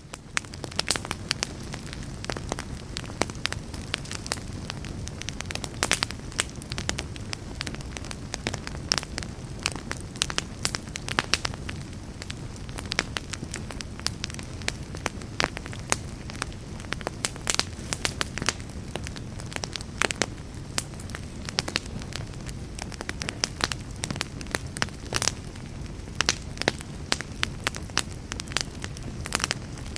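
Wood campfire burning: a steady low rush of flames with frequent, irregular sharp crackles and pops.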